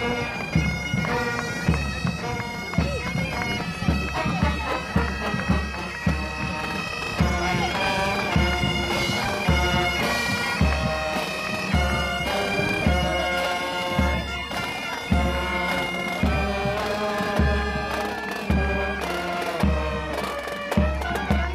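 Bagpipes playing a tune over a steady drum beat.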